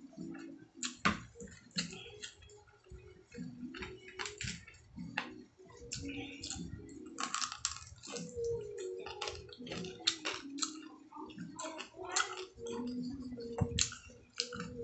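A person biting and chewing fried pork chop close to the microphone: irregular crunching and wet mouth clicks throughout.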